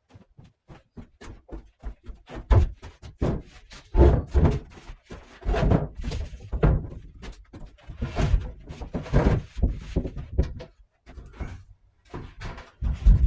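A string of irregular clunks and heavy thuds as a 12-inch sliding compound miter saw is handled and set down on boards across sawhorses. The loudest thuds come about a third of the way in and just before the end.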